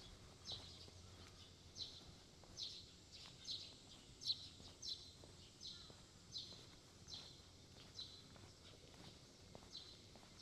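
Quiet footsteps of a person walking at a steady pace, each step a brief light scuff, a little over one a second, over a faint low background hum.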